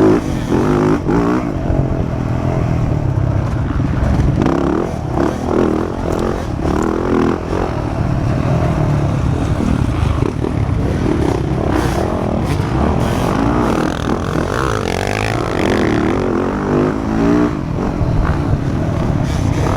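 Motocross bike engine running hard as it is ridden, the pitch rising and falling over and over with throttle and gear changes.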